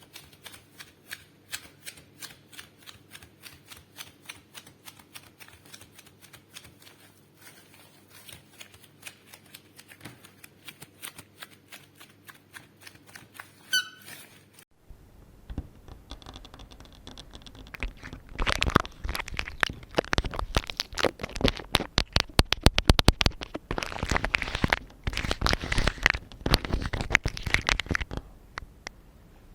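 Rubber-gloved fingers making ASMR trigger sounds close to a microphone: quick light tapping and scratching clicks for about the first half. Then, after an abrupt change, louder rubbing and rustling comes in bursts.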